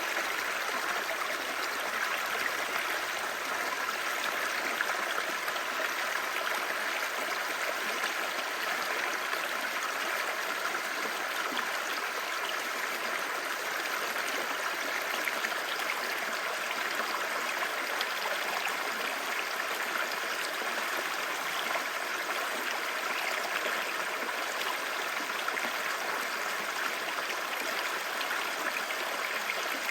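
Clear stream babbling, a steady, unbroken rush of water.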